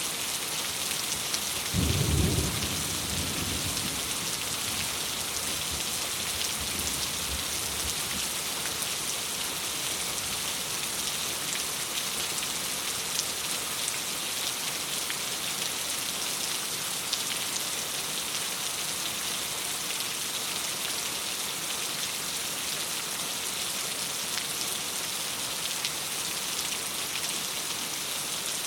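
Steady rain pattering on a window, with a rumble of thunder about two seconds in that fades away over several seconds.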